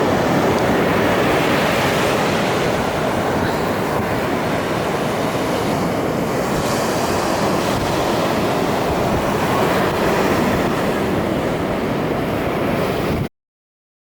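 Steady rush of sea water and wind, loud and unbroken, cutting off suddenly near the end.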